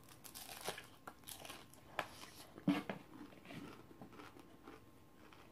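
A person biting into and chewing crunchy food close to the microphone: soft, irregular crunches and crackles, with a sharper crunch about two seconds in.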